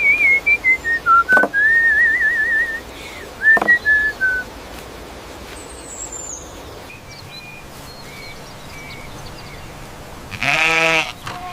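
A warbling whistled tune of a few phrases, then quiet with faint chirps; about ten seconds in, a lamb bleats once, loud and wavering, for about half a second.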